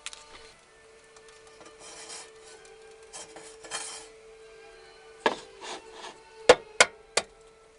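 Rubbing and scraping sounds of things being handled, then three sharp knocks in quick succession near the end, over a faint steady hum.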